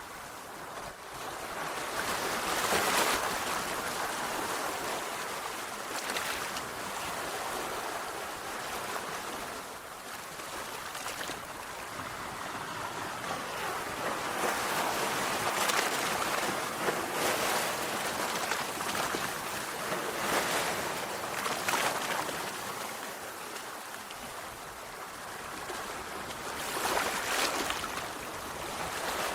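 Sea waves breaking on a shore: a steady wash of surf that swells louder as each wave breaks, several times.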